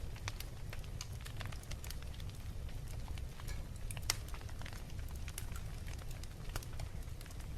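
Wood fire crackling: irregular small pops and snaps over a low steady rumble, with one sharper pop about four seconds in.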